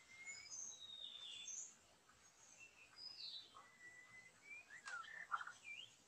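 Faint songbird chirps and short whistled notes, several sliding down in pitch, with a quick click and a cluster of lower chirps near the end.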